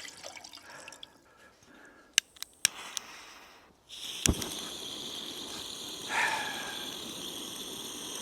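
Gas camping stove: a few light clicks, then about four seconds in the gas comes on with a sharp click and a steady hiss that keeps running.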